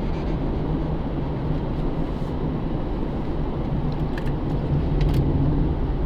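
Pontiac G8 GT's 6.0-litre V8 running steadily with road and tyre rumble, heard from inside the car's cabin, with a few faint clicks about four and five seconds in.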